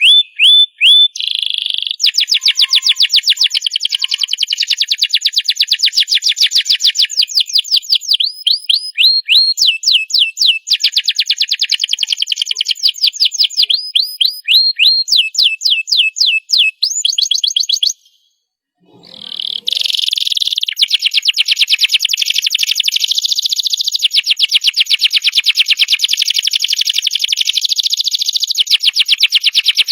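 Domestic canary singing a long song of fast trills: rapid runs of repeated sweeping notes, changing from one trill to the next every second or two. The song breaks off for about a second and a half a little past the middle, then carries on.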